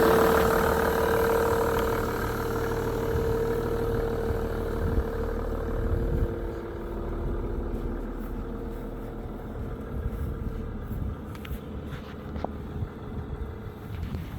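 Mercedes-Benz E320 CDI diesel engine idling cold at freezing temperature, shortly after a cold start. It is loudest at first and eases to a quieter, steady idle within the first few seconds.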